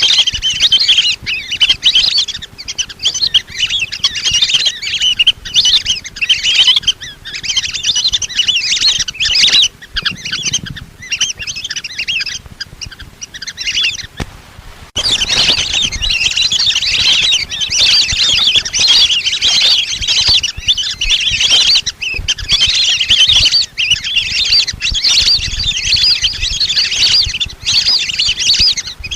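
Flock of lesser whistling ducks calling: a dense, continuous chorus of high, chirpy whistles. It breaks off briefly near the middle and then resumes. This is a recorded lure call used to draw wild whistling ducks in.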